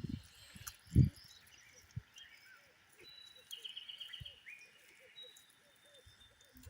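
Two dull thuds in the first second, the second one louder. After them, small birds call now and then and a faint chirping repeats, over a quiet outdoor background.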